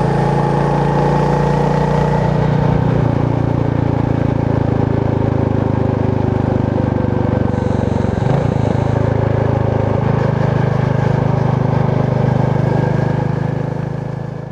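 Royal Enfield Meteor 350's single-cylinder engine and exhaust thumping steadily while riding, its note shifting briefly about eight seconds in. The sound fades out near the end.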